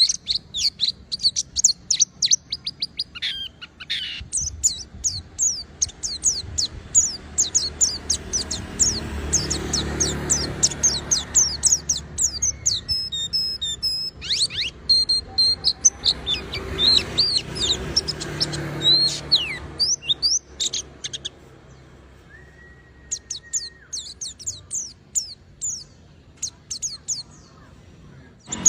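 Pleci (white-eye) singing in long runs of rapid high chirps and twitters, thinning to scattered notes in the last third.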